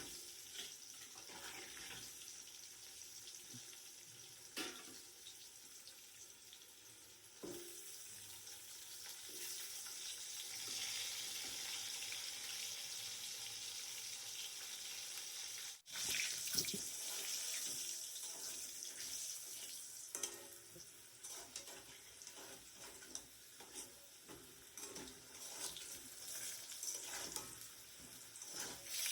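Meat and spices frying in hot oil in a pan, a steady sizzling hiss with scattered clicks from a spatula stirring.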